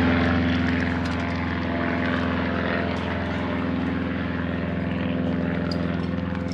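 Propeller aeroplane flying over: a loud, steady engine drone made of several even tones with a fast pulsing beat, cutting in suddenly.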